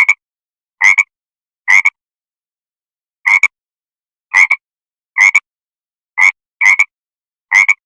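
An animal calling over and over: nine short calls, each a quick double note, with dead silence between them.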